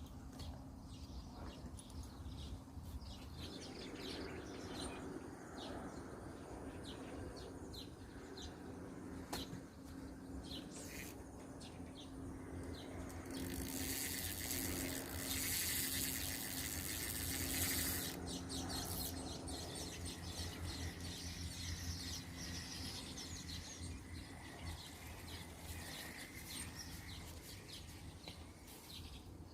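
Birds chirping in short, scattered calls over a low, steady background hum, with a broad hiss swelling for a few seconds midway.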